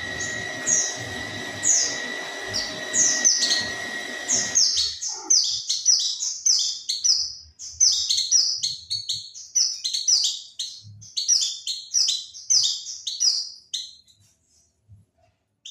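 White-eye (pleci) song used as a lure call: a series of high, quick, downward-slurred chirps. They come spaced apart over a steady background hum and tone for the first few seconds, then run fast and dense from about five seconds in, and break off shortly before the end.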